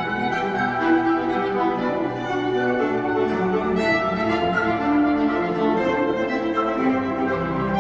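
A concert wind band playing a slow passage of long, overlapping held chords.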